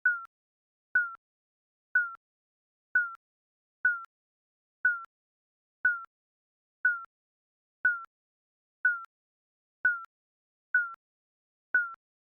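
Digital countdown timer beeping: one short, high beep every second, each starting with a click and dropping slightly in pitch, with silence in between.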